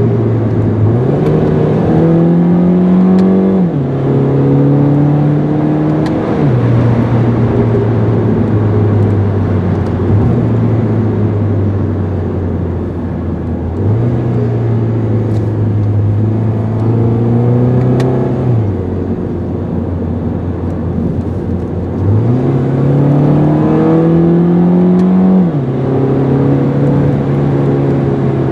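2009 Mini Cooper S R56's 1.6-litre turbocharged four-cylinder engine pulling a car under way, its pitch climbing under acceleration and dropping sharply at each upshift of the six-speed automatic, several times over. About halfway through the note jumps up suddenly, as on a downshift, then holds steady before the next climbs and shifts.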